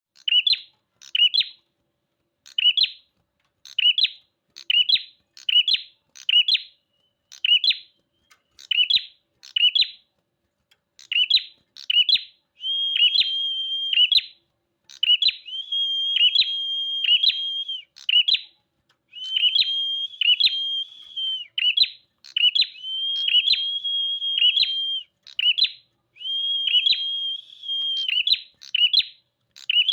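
A prenjak (bar-winged prinia) singing vigorously. It gives short high chirps in pairs about once a second, then moves into longer, steady, buzzing trills of one to two seconds each, broken up by quick chirps.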